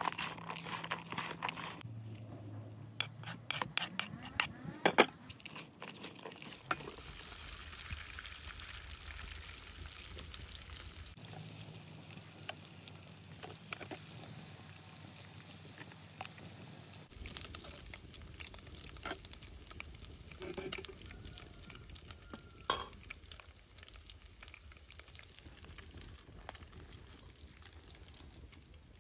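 Liver pieces sizzling in hot oil in an aluminium pot, with stirring and occasional clinks of a metal ladle. Near the start, hands squeeze and toss sliced onions in a plastic bowl.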